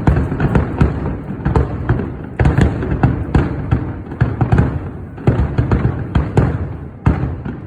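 Aerial fireworks bursting in quick succession: a dense barrage of overlapping bangs and booms with crackle between them.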